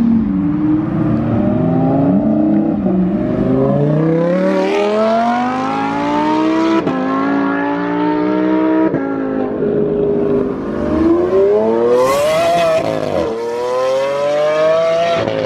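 Lamborghini V12 engine accelerating hard, its pitch climbing and dropping sharply at each of several upshifts.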